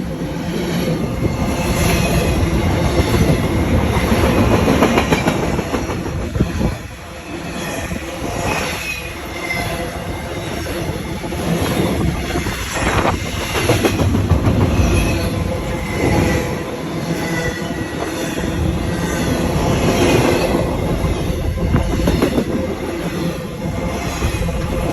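Train passing close by on an electrified railway: a loud, continuous rumble of wheels on rails that swells and eases, with clattering over the rail joints and some wheel squeal.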